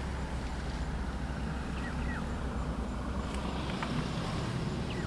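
Outdoor ambience: a steady low rumble with a few short, falling bird chirps, a pair about two seconds in and another near the end.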